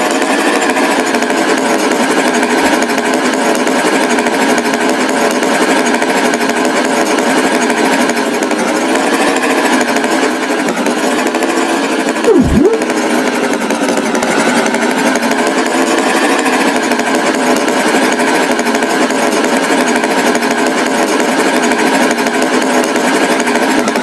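Loud, steady rattling engine noise from a cartoon tractor. About halfway through comes a brief swooping tone that dips and then rises.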